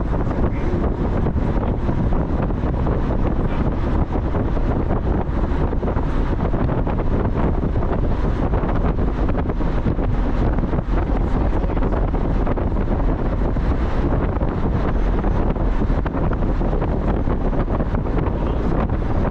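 Heavy wind buffeting on the microphone from a moving car, with road and engine noise underneath, steady throughout.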